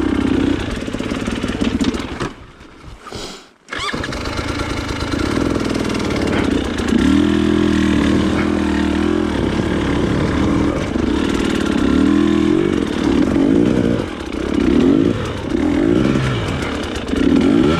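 Trail motorcycle engine running under load. It drops away briefly about two seconds in and picks up again abruptly, then revs up and down repeatedly near the end.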